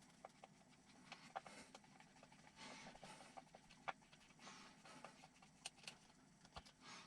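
Faint scattered clicks and brief rustling from small kit parts being handled, with one sharper click about four seconds in.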